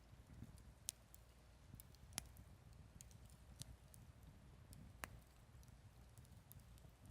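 Campfire wood crackling faintly: scattered sharp pops and snaps, the loudest about one, two and five seconds in, over a low steady rumble.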